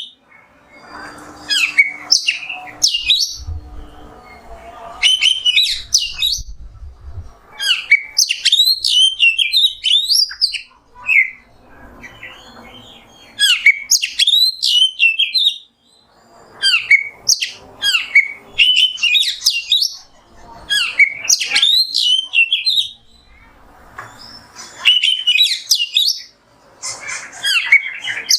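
Oriental magpie-robin (kacer) singing: loud, rapid phrases of varied whistles and chirps, repeated every few seconds with short pauses between them.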